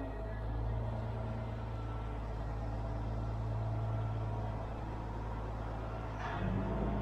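Heavy engine running steadily at idle; about six seconds in its note steps up slightly, as if it is taking on load or revving.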